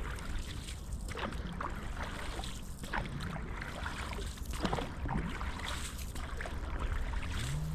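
Canoe on the water: a paddle dipping and splashing, with water trickling off it, over a steady low rumble of wind on the microphone.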